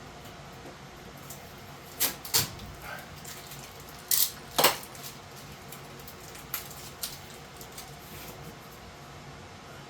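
Sharp clinks and knocks of hand work on metal parts: two about two seconds in, a short scrape and a sharp clack about four and a half seconds in, then two lighter ticks.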